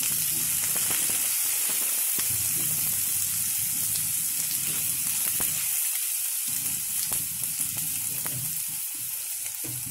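Freshly added grated ginger frying in hot oil in a non-stick wok with dried red chillies, bay leaves and panch phoron: a steady sizzle with a few small pops, slowly dying down.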